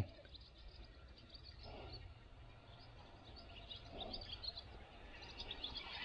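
Birds chirping faintly: many short, high chirps scattered throughout, over a low steady background noise.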